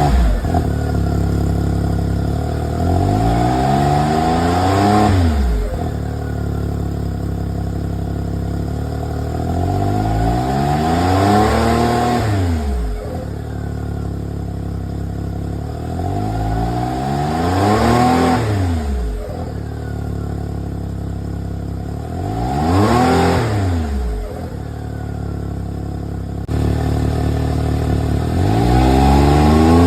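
Turbocharged three-cylinder engine of a Can-Am Maverick X3 idling and being revved four times, with a fifth rev starting near the end. Each rev rises in pitch, then drops away with a short hiss as the blow-off valve vents the boost when the throttle closes.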